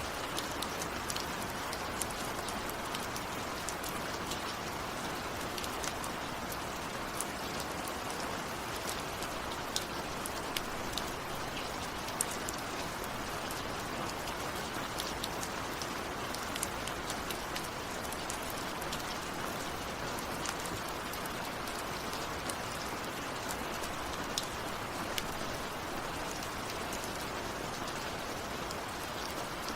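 Steady rain falling, with a constant hiss and many close individual drops ticking on a surface; no thunder.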